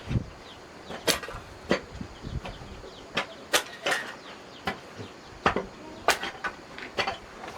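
A string of sharp, irregular knocks and clacks, roughly one every half second to a second, like hard objects or wood being struck or handled.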